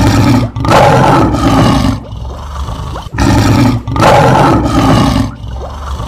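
Lion roar sound effect, heard twice. Each roar is loud and rough and comes in two heaves; the second roar starts about three seconds in.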